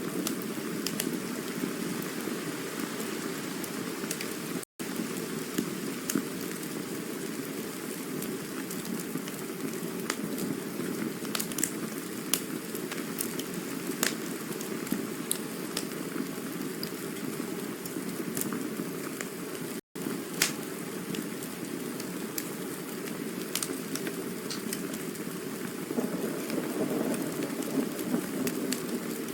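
Campfire burning steadily with a low rushing hiss and scattered sharp crackles and pops from the burning wood. The sound cuts out completely for an instant twice, about 5 and 20 seconds in.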